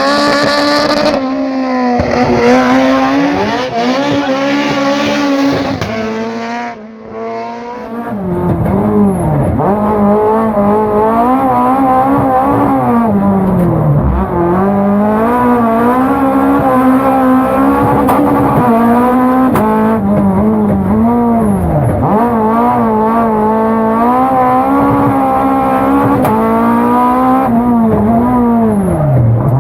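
Fiat 131 Abarth rally car's twin-cam four-cylinder engine at hard rally pace, its pitch repeatedly climbing and falling through gear changes and lifts. The engine briefly drops away about seven seconds in before pulling hard again.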